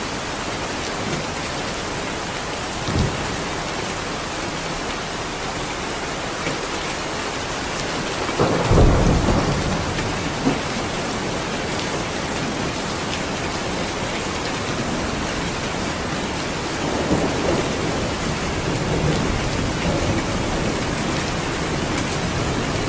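Steady heavy rainfall, with low rumbles of thunder swelling up a few times; the strongest comes about nine seconds in.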